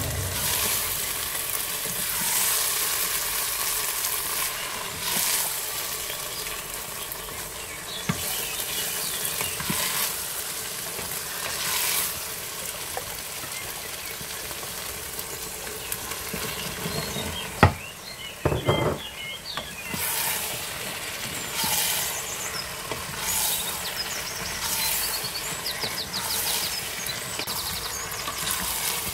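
Minced lamb sizzling in the metal inner pot of an electric pressure cooker while a wooden spoon stirs and scrapes through it in strokes every second or two. A single sharp knock stands out about two-thirds of the way through.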